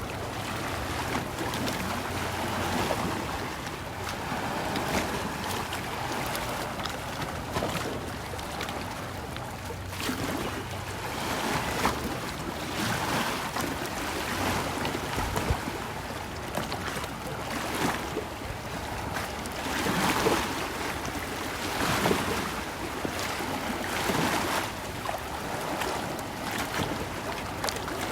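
Small waves on Lake Atitlán lapping and washing at the shore in repeated swells every couple of seconds. A low steady hum runs underneath and fades after about ten seconds.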